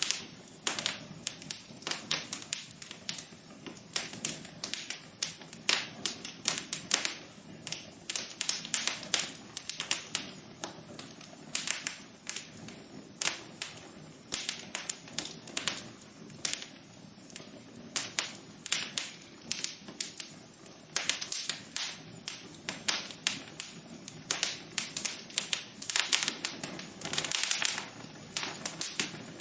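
Wood fire crackling in a fireplace: irregular sharp pops and snaps, several a second, over a low steady hiss, with a quick flurry of pops near the end.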